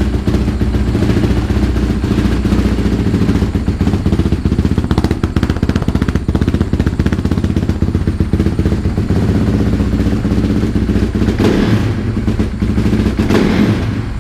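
Honda CRF450R's single-cylinder four-stroke engine running steadily, warming up just after a cold kick-start, with a couple of brief louder surges near the end.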